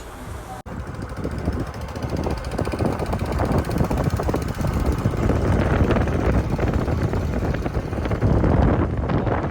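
Wind buffeting the microphone on a moving motorcycle, with road and engine noise underneath. The sound starts abruptly about half a second in and grows louder and gustier.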